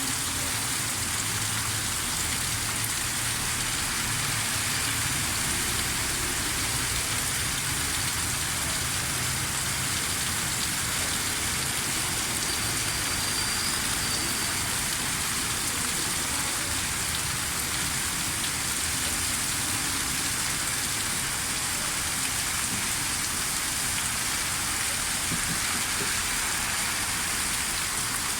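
Heavy rain falling steadily, a constant hiss of drops hitting surfaces.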